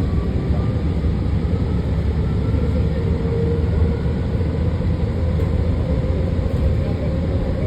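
BART train running: a steady low rumble with a faint tone above it.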